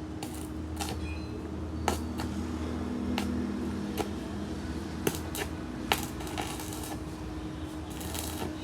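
Sharp metallic clinks and taps of tools and metal parts, coming irregularly about eight times, over a steady low machine hum.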